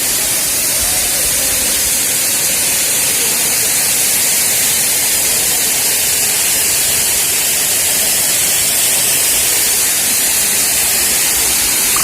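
Waterfall pouring into its pool: a steady, loud rush of falling water with a bright hiss.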